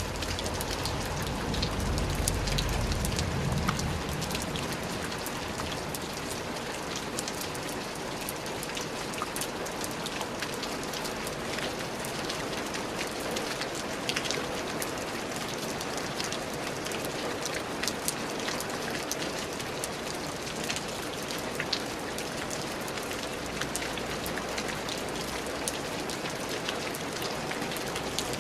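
Steady rain falling, with many separate drops ticking sharply through the hiss. A low rumble swells and fades within the first few seconds.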